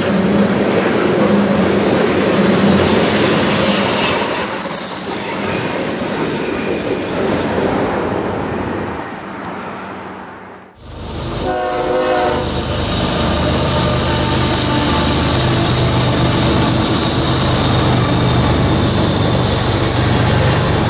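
Freight train tank cars rolling past: steady wheel and rail noise with clickety-clack and a high wheel squeal a few seconds in. The sound fades out about ten seconds in, and a second train recording follows, with a brief horn-like tone and then a steady rumble of the train running.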